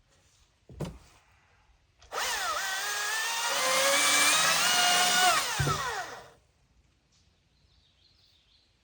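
A handheld power tool, nicknamed the 'old lightsaber', is run to cut something off. Its motor spins up with a whine that climbs in pitch, runs for about three seconds, then winds down with a falling whine. A short knock comes just before it.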